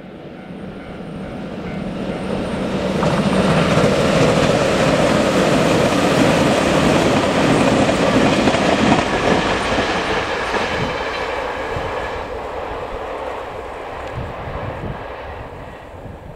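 JR Shikoku 8000 series electric limited express train passing at speed. The rush of wheels on rail builds to its loudest about four seconds in, holds for several seconds, then fades, with wheel clacks over the rail joints as it draws away.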